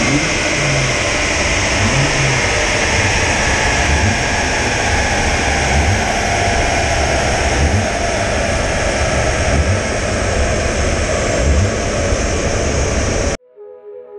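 Audi Quattro 10-valve turbocharged five-cylinder engine running on a rolling-road dyno, mixed with the rush of the dyno rollers and cooling fans, a whine slowly falling in pitch in the second half. The sound cuts off suddenly near the end and music begins.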